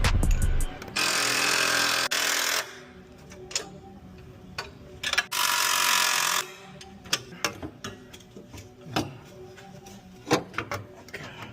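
A power tool running on the exhaust bolts in two bursts, the first about a second and a half long and the second about a second long. Between and after them come scattered metallic clicks of hand tools on the fittings.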